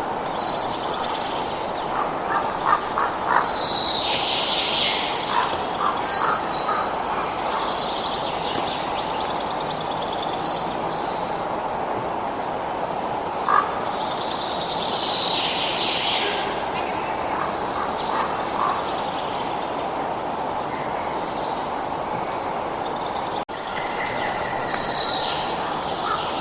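Birds chirping and calling over a steady rushing background. There are repeated short high calls and a few longer bursts of song, and a brief dropout in the sound near the end.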